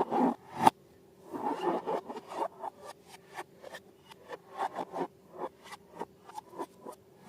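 Slime being squeezed and stretched by hand, giving off irregular sticky clicks, crackles and small pops with some rubbing, the sharpest click about a second in.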